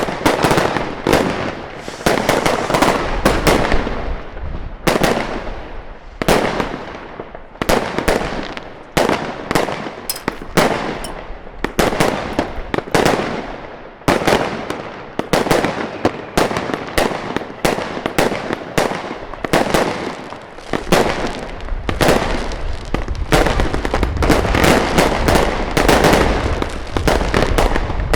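New Year's fireworks: a dense, continuous barrage of sharp bangs and crackles, many overlapping, each dying away with a short echo. A low rumble runs underneath in the last third.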